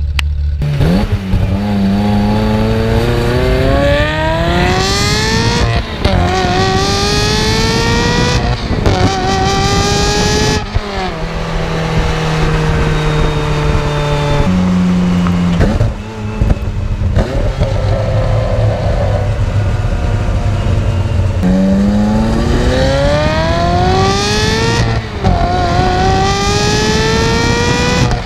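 Ferrari F355's flat-plane-crank V8 exhaust accelerating hard through the gears, heard close to the tailpipe: the pitch climbs in each gear and drops sharply at each upshift. In the middle it runs steadier and lower before a second hard pull through the gears near the end.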